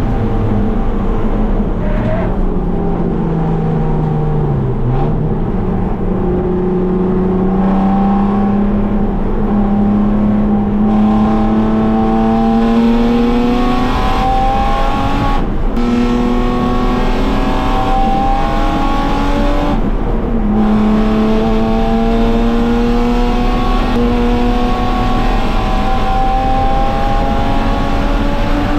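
BMW E36 325is race car's 2.5-litre inline-six heard from inside the stripped, caged cabin under hard acceleration. The engine note dips to a low point about five seconds in, then climbs in long steady pulls, dropping at upshifts about halfway and about two-thirds through, over constant wind and road noise.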